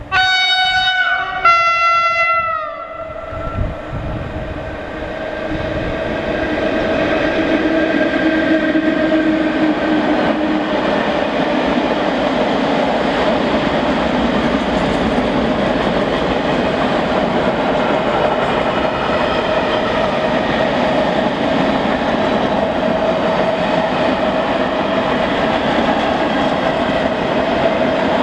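ET22 electric freight locomotive sounds two short blasts on its horn, the second dropping in pitch as it cuts off. It then passes with a long train of open freight wagons: a steady rumble and clatter of wheels on the rails that swells over the first few seconds and holds.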